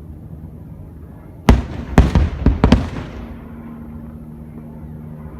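Aerial firework shells bursting: a quick run of about five sharp bangs starting about a second and a half in, their rumble fading away within about a second.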